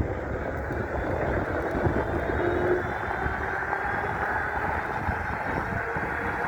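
Electric bike accelerating hard toward top speed on its rear hub motor. Steady wind rush over the microphone and road noise, with a faint whine that rises as the speed climbs.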